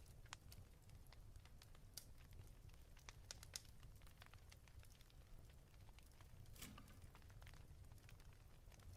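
Faint fireplace crackle: irregular small pops and snaps over a low steady rumble, with one louder crackle about two-thirds of the way through.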